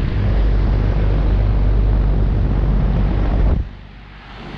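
GMC central air-conditioner condensing unit running, its condenser fan's discharge air buffeting the microphone as a loud, low rumble that drops away sharply about three and a half seconds in.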